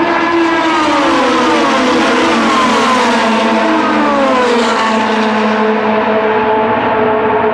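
IndyCars running at speed on an oval, several cars passing one after another with their engine notes falling in pitch as each goes by, over the steady drone of the rest of the field.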